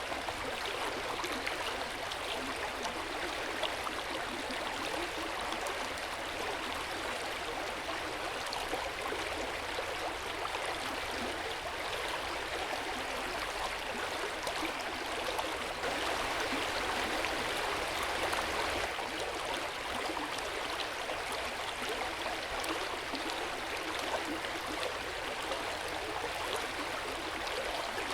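Hot spring water flowing steadily and gently in an open-air bath, an even watery rush with no breaks.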